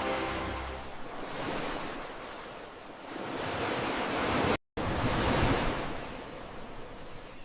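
Ocean waves washing in, the surf swelling and then falling back twice, with a brief dropout in the sound about halfway through.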